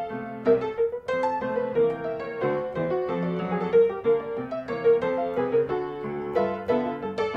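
Background music: a piano playing a steady flowing melody with chords.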